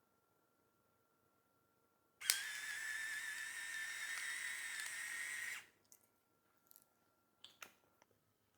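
Small battery-powered electric sesame grinder running for about three and a half seconds with a steady high whine, starting and stopping abruptly; a few light clicks follow.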